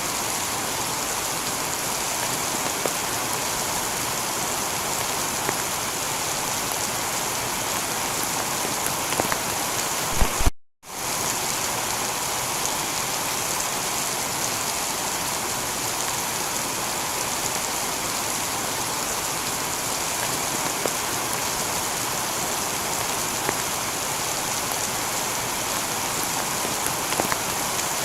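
Heavy rain falling steadily on a tiled roof, a dense even hiss with scattered drop ticks. About ten seconds in, a few sharp clicks come just before the sound cuts out for a split second, then the rain resumes.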